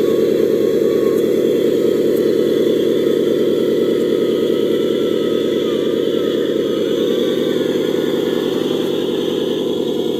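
Radio-controlled truck running steadily: an unbroken engine-like drone with a faint wavering whine above it.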